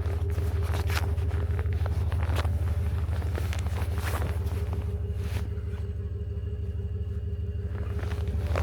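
A vehicle engine idling steadily close by, with a few crunching footsteps in snow in the first half.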